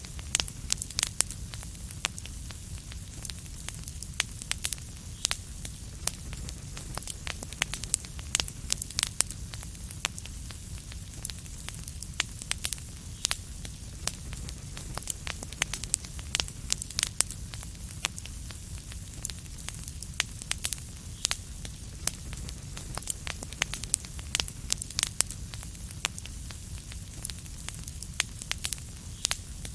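Fireplace fire crackling: frequent, irregular sharp pops and snaps over a steady low rumble and hiss.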